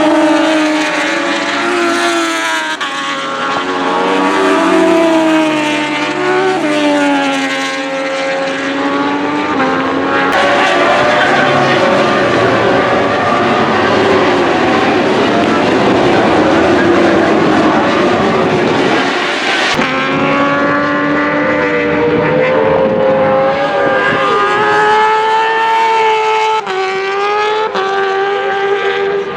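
Racing engines at high revs, several at once, their pitch rising and falling with throttle and gear changes. In the middle the engine notes give way to about ten seconds of loud, even rushing noise, and then the engines return.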